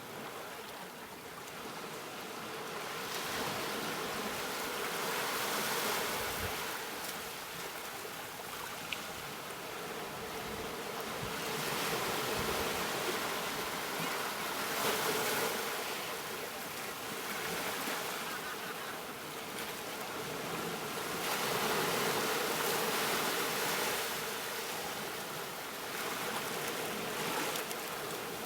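Ocean waves breaking on a beach, the surf hiss swelling and fading in slow surges several seconds apart.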